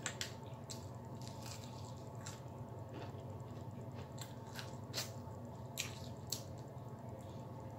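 Mouth sounds of someone eating fried chicken wings: wet chewing and smacking, with irregular sharp clicks, over a steady low hum.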